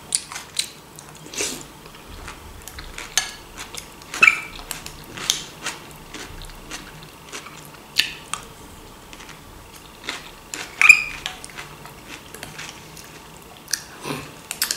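Close-up mouth sounds of a person chewing and biting a vegetable salad dressed with mayonnaise: irregular wet smacks and clicks, with an occasional clink of a spoon against a ceramic bowl.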